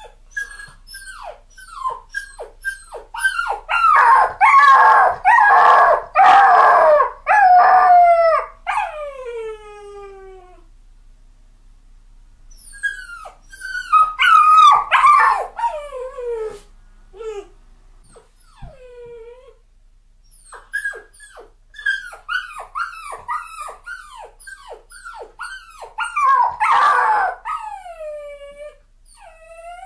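Puppy crying: a run of high whimpers and yelps, each falling in pitch. They come in three bouts with short lulls between them, loudest a few seconds in, midway and near the end.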